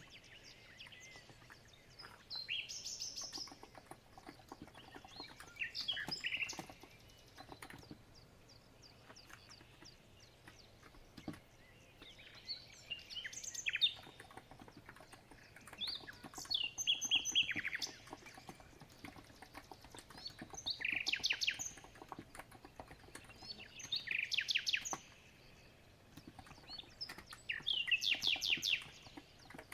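Songbirds singing in short chirping phrases that repeat every few seconds. Under them, faint soft clicks of steady typing on a COX Empress electro-capacitive keyboard.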